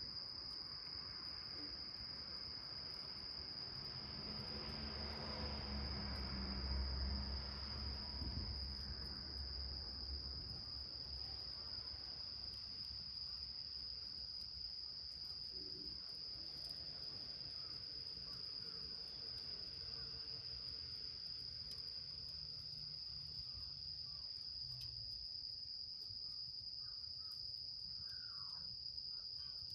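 Insects trilling in one continuous high-pitched drone. A low rumble swells and fades between about four and ten seconds in, with faint scattered ticks throughout.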